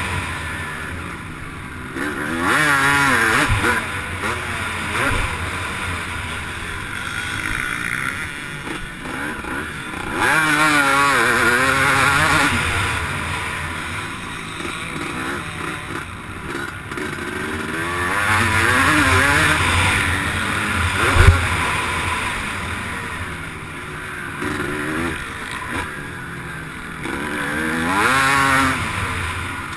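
Motocross bike engine heard close up from on board, revving up and down as it is raced round the track, with a strong surge of throttle every several seconds and wind hiss over it. A sharp thump about 21 seconds in is the loudest moment.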